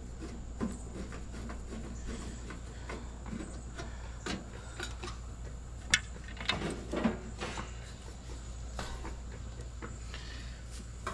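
Scattered light clicks and knocks of things being handled and set in place, with one sharper click about six seconds in, over a steady low hum.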